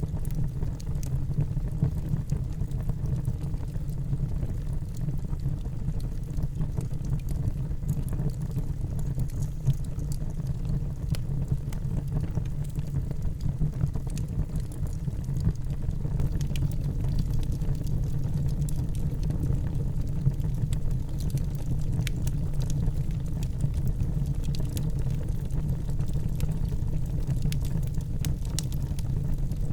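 Wood fire burning in a fireplace: a steady low rumble of flames with scattered sharp crackles and pops of the burning wood.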